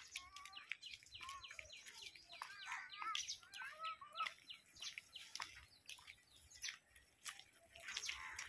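Small birds chirping, with many short, quick calls repeating throughout, faint against the open-air background.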